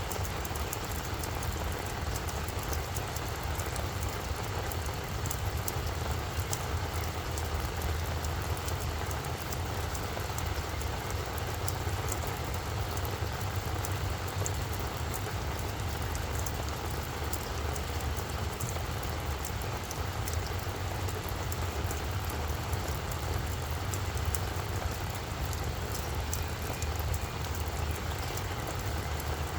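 Steady rain falling on a flower bed: an even hiss with fine, scattered drop ticks, over a constant low rumble.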